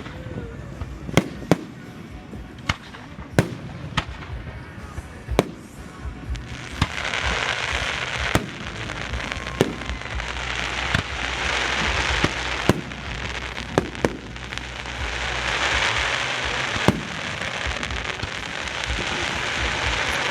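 Aerial fireworks going off, with a sharp bang about every second. From about seven seconds in, a loud crackling hiss swells up twice over the bangs.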